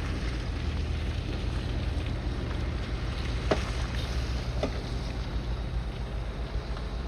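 Bulldozer's diesel engine running steadily at work, with two short knocks, one about halfway through and another a second later.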